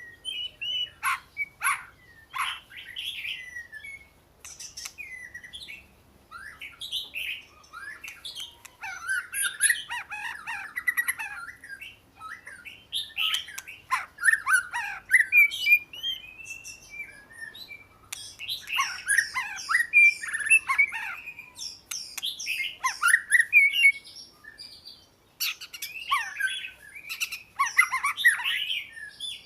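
Oriental magpie-robin singing: quick, varied whistled phrases a few seconds long, with short pauses between them.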